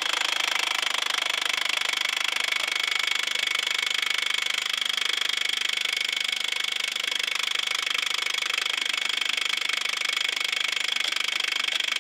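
1-inch impact wrench hammering continuously with a steady high whine, running a Budd nut on a semi-truck wheel up as tight as it will go.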